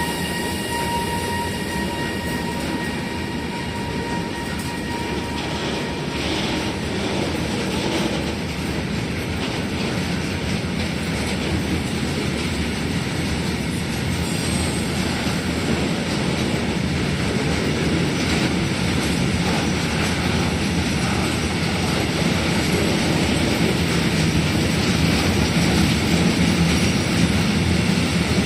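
A train running on the rails: steady, dense noise that grows a little louder toward the end. A high steady tone fades out in the first few seconds.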